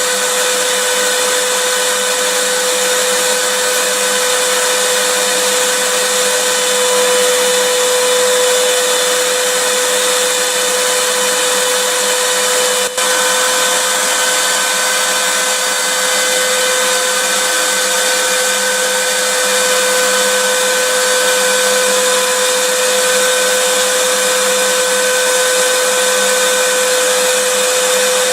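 Vacuum cleaner running steadily: an even rush of air with a steady motor hum, with a momentary dropout about thirteen seconds in.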